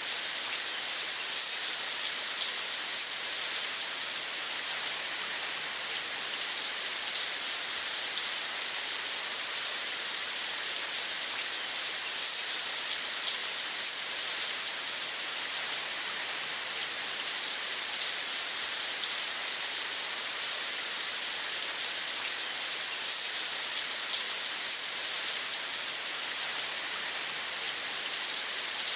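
Steady rain falling on a surface: a dense, even hiss with a fine patter of individual drops, unchanging throughout.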